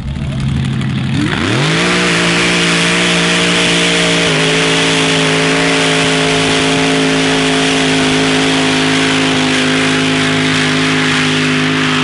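Hill-climb truck's V8 engine revving up sharply about a second in, then held at high, steady revs at full throttle, with a slight dip in pitch about four seconds in.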